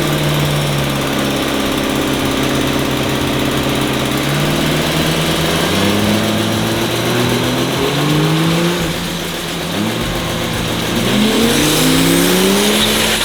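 Diesel race truck engine under power. Its pitch holds steady, then rises several times and drops back between rises, as it revs up through gear changes.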